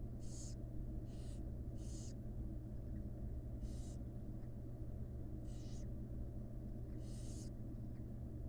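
Barn owl chicks giving hissing begging calls, six short rasping hisses a second or two apart, over a steady low hum.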